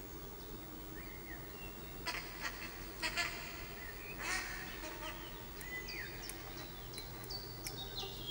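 Wild birds chirping and calling in short notes, with a few quick falling whistles about five to six seconds in, over a faint steady outdoor background hush.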